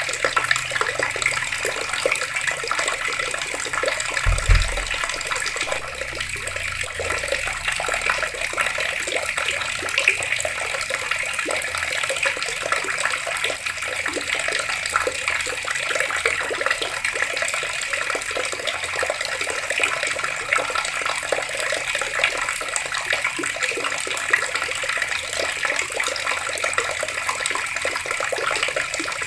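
Water running steadily from taps and splashing in an even, unbroken rush. A brief low thump sounds about four seconds in.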